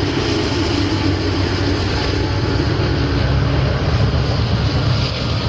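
Train running, with a steady low rumble and continuous rail noise; a faint steady tone fades out about three and a half seconds in.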